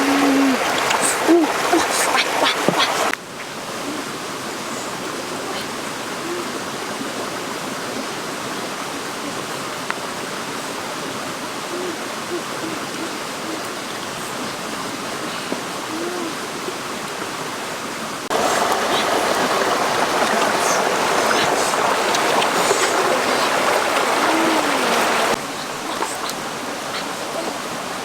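Steady rush of flowing water, getting suddenly quieter about three seconds in and louder again for a stretch later on, with a few short low calls scattered through it.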